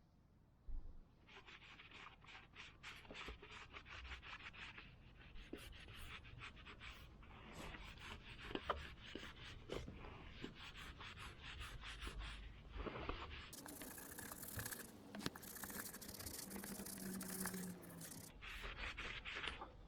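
Cloth rubbing and buffing a small metal part, a run of faint scratchy strokes, as dried silver paste is polished off. For a few seconds past the middle the rubbing turns denser and harsher.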